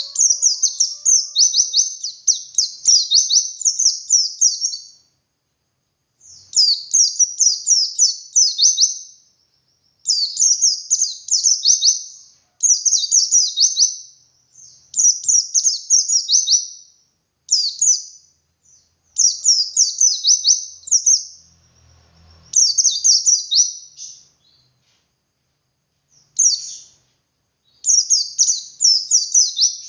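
White-eye (pleci dakun) singing its long 'ngalas' song: bursts of rapid, high down-slurred chirping notes, each a second to three seconds long, repeated with short pauses between.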